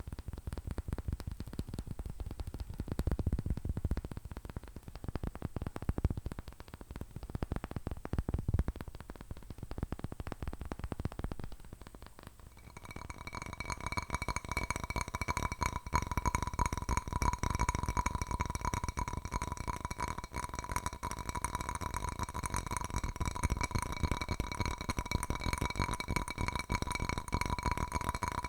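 Fingernails tapping fast on a dull-sounding object, then, about halfway through, fast nail taps on a hard object that rings with a steady pitch at each tap.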